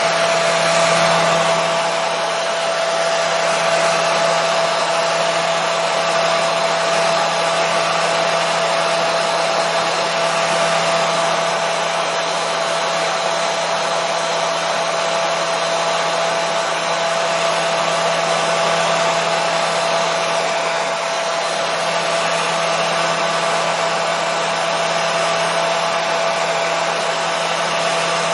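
Hair dryer running steadily: an even rushing of air with a constant motor whine and a low hum, unchanging throughout.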